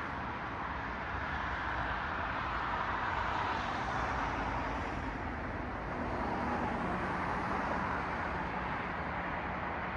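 City road traffic: cars passing on a street, a steady wash of tyre and engine noise that swells as vehicles go by, loudest about three to four seconds in and again around seven seconds.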